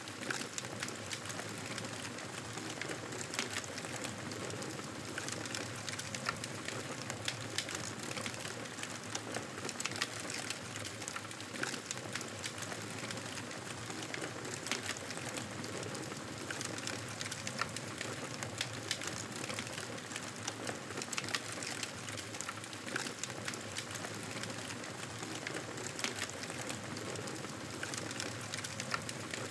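Campfire burning with a steady hiss and frequent sharp, irregular crackles and pops.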